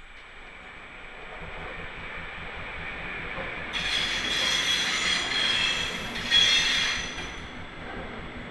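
Locomotive-hauled double-deck passenger train passing close by, its wheels rumbling on the track. The wheels squeal loudly for about three seconds in the middle, peaking near the end of that stretch, then the squeal fades as the coaches roll on.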